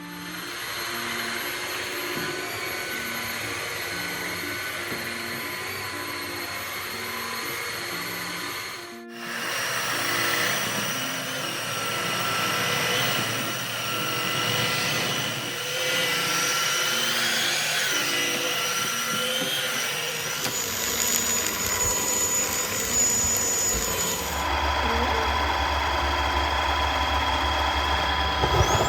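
Tineco Floor One S5 cordless wet-dry floor-washer vacuum running, a steady motor whine and rush of air whose pitch and character change a few times, with a short dip about a third of the way in. Soft background music with a marimba-like melody plays underneath.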